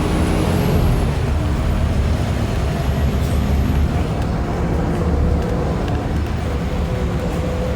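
Scania L94IA articulated bus's diesel engine running steadily, with a faint high whine above it that fades out about four seconds in.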